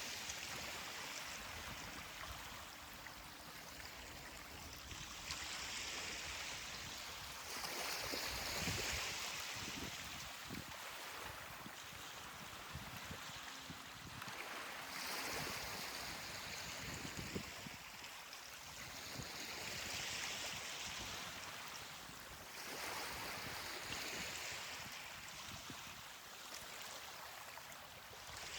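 Ocean waves washing up a beach: a steady rush of surf that swells and fades every few seconds as each wave comes in.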